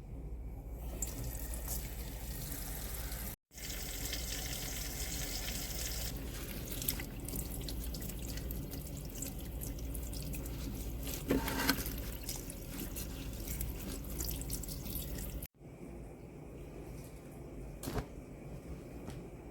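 Steady running water, with two abrupt cuts: one about three and a half seconds in and one near the end.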